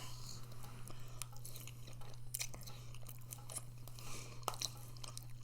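A person chewing food close to the microphone, with irregular small clicks of the mouth and teeth. A steady low hum runs underneath.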